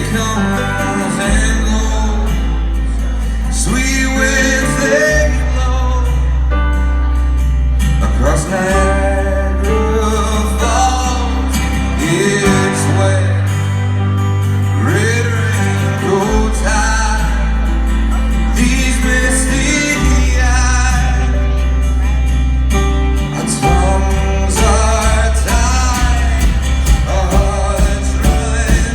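A live band playing a song, with a voice singing over guitar and long held bass notes that change every few seconds. The beat grows busier near the end.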